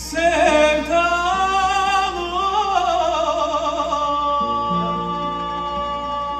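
Live Turkish song: a singer draws out one long melismatic note, wavering and bending for about three seconds before settling into a steady held tone over instrumental accompaniment.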